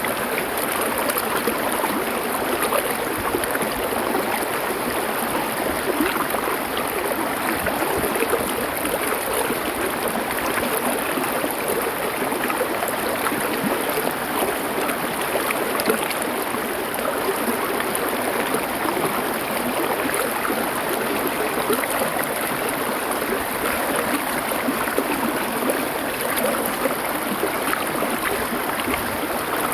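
Stream water flowing over stones: a steady, even rush of water that does not change.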